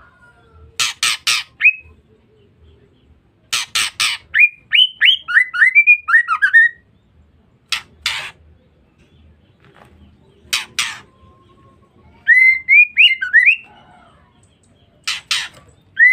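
Female white-rumped shama calling: groups of two to four harsh, rasping notes alternating with quick runs of short whistled notes that slur up and down, the pattern repeating several times.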